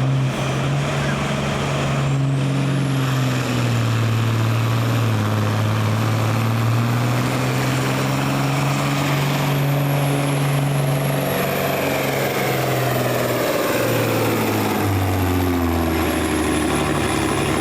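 Heavy diesel pulling engine running hard under load, a steady low drone with a high whine that rises about two seconds in and holds. Near the end the engine note drops.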